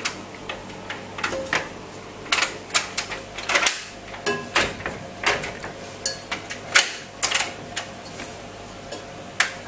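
A stiff door latch and handle being worked to get a door open: irregular clicks, rattles and knocks, a few sharper than the rest.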